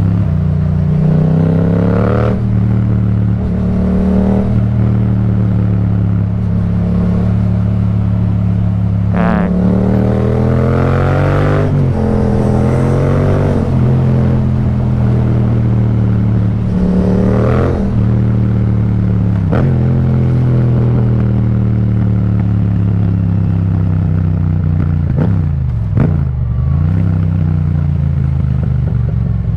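Yamaha MT-07's parallel-twin engine through an Akrapovic exhaust, running at low revs with several short throttle blips that rise and fall, the longest about a third of the way in.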